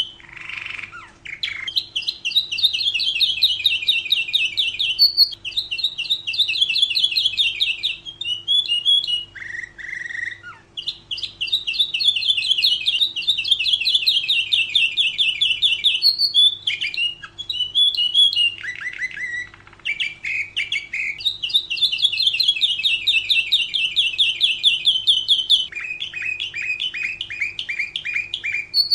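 Domestic canary singing: long, fast, rolling trills of a few seconds each, one after another, broken by short chirps and lower notes between phrases.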